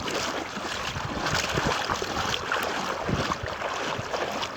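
Floodwater splashing and sloshing, with irregular low thumps.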